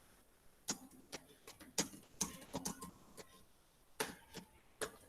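Keys typed on a computer keyboard: irregular sharp clicks in quick runs with short pauses between.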